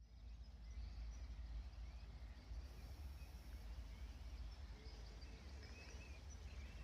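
Faint birdsong, short chirping phrases, over a steady low rumble of wind on the microphone.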